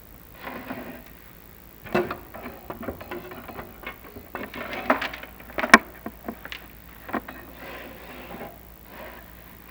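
Chimney inspection camera and its cable scraping and knocking against clay flue tiles as it is lowered down the flue. The knocks come irregularly and sharply, and the loudest falls a little past the middle.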